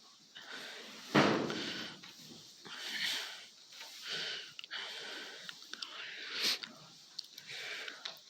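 Holstein cows eating in their barn stalls, with short breathy snorts and rustling that come every second or so. There is a sudden thump about a second in.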